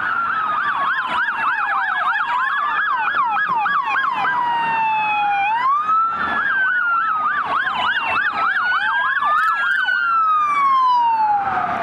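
Several police car sirens sounding together as the cars respond code 3: a slow rising and falling wail overlaps with a fast yelp, and the patterns change every few seconds. The sirens cut off sharply just after the end.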